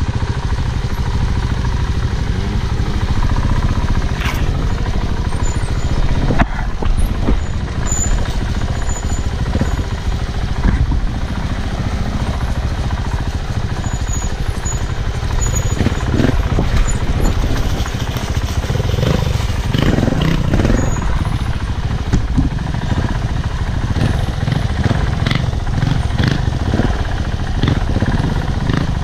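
Off-road motorcycle being ridden along a dirt trail: a steady, loud low rumble with scattered knocks and rattles.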